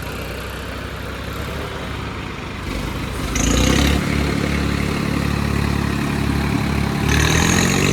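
Tractor diesel engines labouring under full load in a tug-of-war pull. About three seconds in the engine note rises and holds strong, then eases off near the end.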